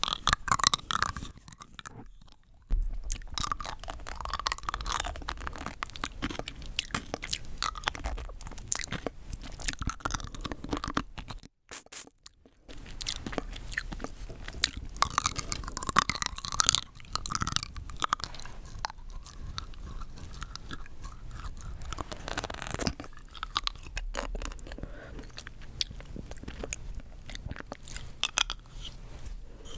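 Close-miked mouth sounds of rock candy being bitten and chewed: hard sugar crystals crunching and cracking between the teeth in dense runs of sharp crackles, with brief pauses about two seconds and about twelve seconds in.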